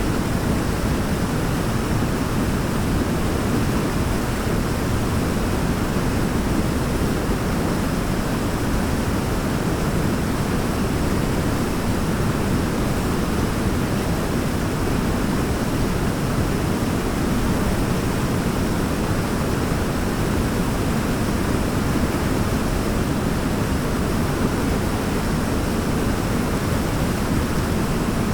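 Waterfall rushing steadily: an even, deep wash of falling water that does not change.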